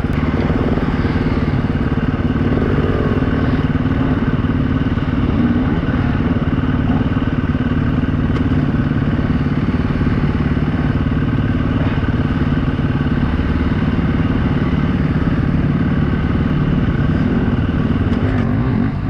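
Single-cylinder four-stroke dirt bike engine, a KTM 350 EXC-F, running steadily at a nearly constant low speed with little change in throttle.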